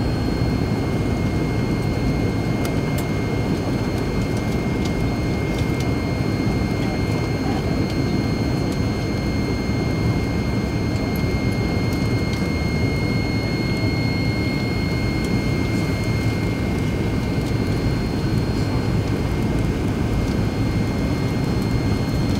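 Steady cabin noise of a McDonnell Douglas MD-88 airliner: a constant low rumble of its rear-mounted jet engines and airflow, with a thin steady high whine that swells slightly about halfway through.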